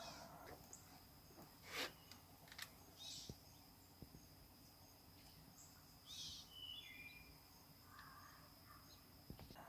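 Faint, scattered bird chirps, several short high calls including a couple of falling notes about seven seconds in, over a steady high-pitched tone. There is one brief sharp rustle about two seconds in.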